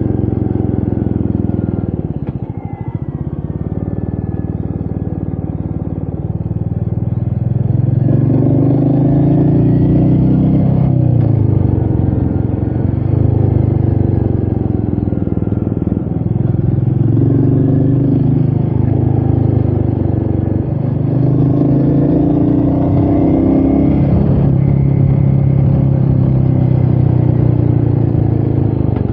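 Royal Enfield Meteor 350's single-cylinder engine under way, its note rising and dropping back several times as the throttle is opened and eased, with a short dip about two to three seconds in. Wind rushes over the microphone underneath.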